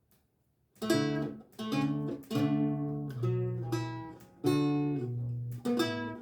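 Renaissance lute with gut strings, plucked slowly. After a brief silence a phrase of about six chords and notes begins, each ringing and dying away before the next.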